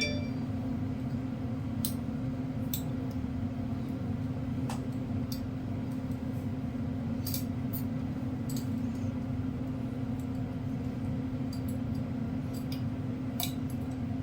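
Scattered light metallic clicks and clinks from setting valve keepers (retainers) onto a compressed valve spring of a Hemi 5.7 cylinder head with a valve spring compressor, over a steady low hum.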